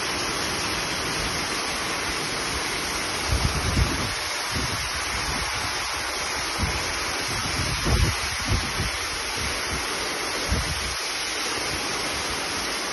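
Heavy rain in a steady hiss, water streaming off the edge of a tiled roof overhang, with a few short low gusts of wind buffeting the microphone.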